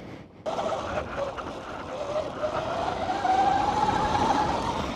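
Sur-Ron electric dirt bike pulling away, starting about half a second in: a single motor whine rising slowly in pitch as it gains speed, over a steady rush of wind and tyre noise.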